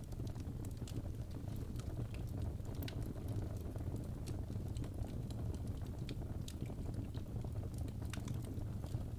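Fireplace fire crackling: a steady low rumble with irregular sharp pops and snaps.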